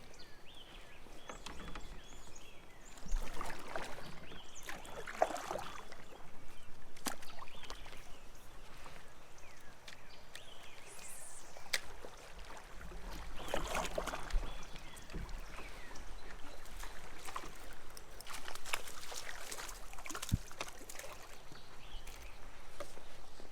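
Kayak paddle strokes splashing and swishing through creek water in a few separate bouts, with a few sharp knocks in between.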